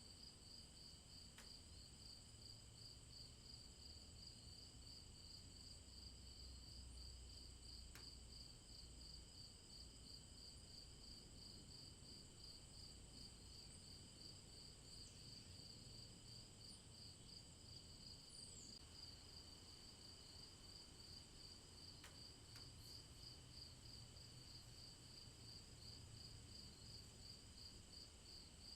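Night insects chirping faintly: a steady pulsing chirp, about two to three pulses a second, over continuous high trills.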